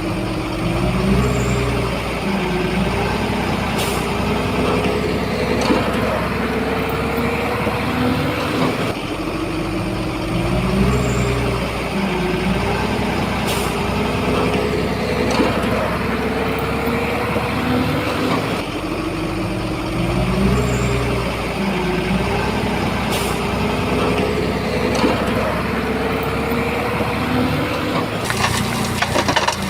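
Heavy diesel engine of a Shantui bulldozer working under load, its pitch rising and falling in a cycle that repeats about every ten seconds, with a sharp knock once in each cycle.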